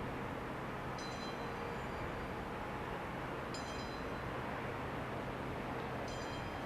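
Railway noise from a train: a steady rumble with a low hum that stops near the end. A short high chime rings about every two and a half seconds, three times.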